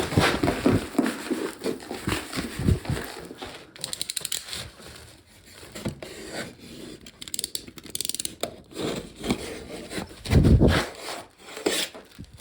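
Handling noises: rustling and scraping, with short runs of rapid clicks, and a heavy thump about ten seconds in.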